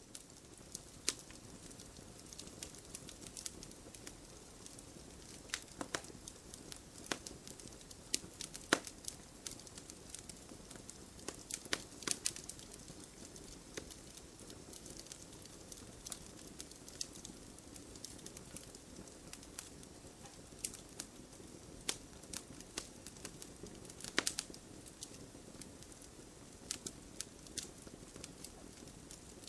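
Wood campfire crackling: irregular sharp pops and snaps, a few much louder than the rest, over a steady soft rush of burning.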